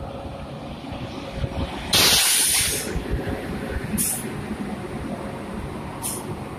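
WAG-7 electric freight locomotives rumbling past on the rails, with a loud hiss about two seconds in that lasts about a second, then two short, thinner hisses about two seconds apart.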